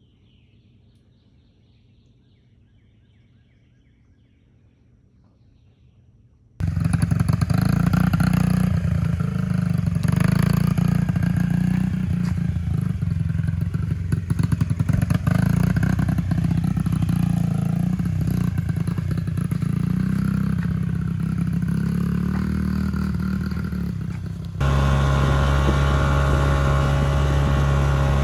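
Faint outdoor background, then a sudden cut to a loud running engine with clatter. Near the end it changes abruptly to a steadier, evenly pitched engine note.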